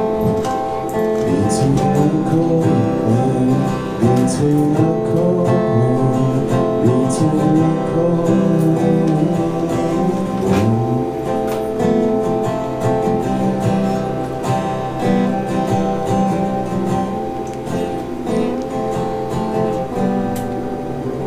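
A live band playing an instrumental passage of an original song, guitars to the fore.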